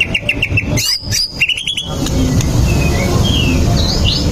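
White-rumped shama singing: a fast run of short repeated notes, then high whistled phrases and another quick trill. About two seconds in it changes to a different recording, with a few fainter whistled notes over a steady low background noise.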